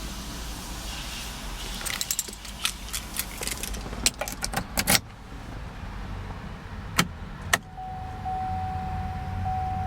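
2008 Chevrolet Malibu V6 idling as a low steady hum, over a rapid cluster of light metallic clicks and rattles about two to five seconds in. Two single sharp clicks follow, then a steady electronic tone starts near the end.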